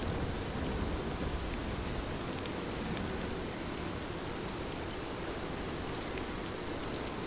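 Heavy rain falling steadily, an even hiss with scattered drop ticks, with a low rumble that eases off over the first couple of seconds.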